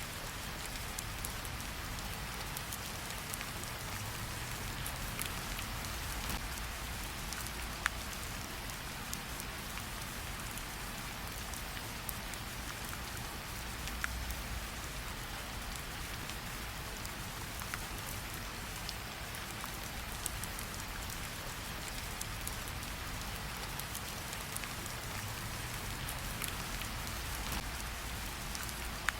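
Steady rain falling, mixed with a campfire's scattered crackles; a few sharper pops stand out, about 8 and 14 seconds in and near the end.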